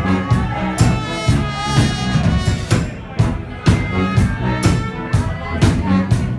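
Brass band playing live: brass instruments holding pitched notes over a drum kit that keeps a steady beat of about two hits a second.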